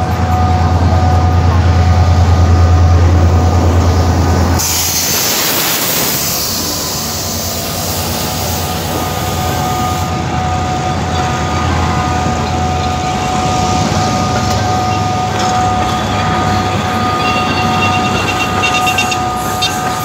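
Diesel-hauled passenger train passing close by: a loud, low engine drone for the first four seconds or so, then a sudden rush of noise about four and a half seconds in, and the steady rumble of the coaches rolling past.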